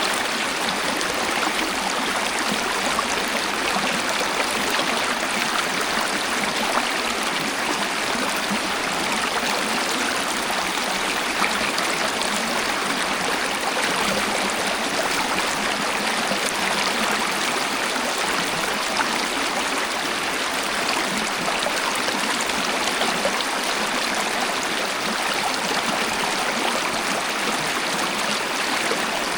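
Waterfall: a steady, unbroken rush of falling and flowing water, with little deep rumble.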